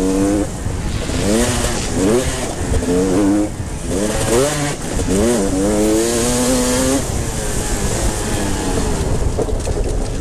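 Motocross motorcycle engines racing past, revving up in repeated rising sweeps through the gears and dropping back between them, over the steady drone of other bikes on the track.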